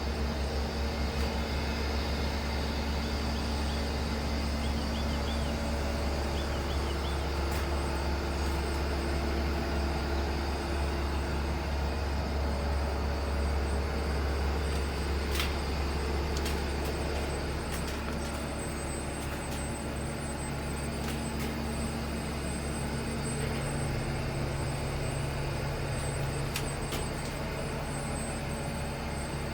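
Heavy diesel engine of a Caterpillar 730C2 articulated truck running steadily with a deep rumble, a little quieter from about two-thirds of the way through, with a few faint clicks.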